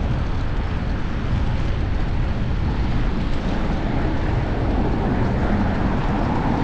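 Steady rumble of wind buffeting a chest-mounted action-camera microphone, mixed with road noise, while riding a fixed-gear bicycle through city streets.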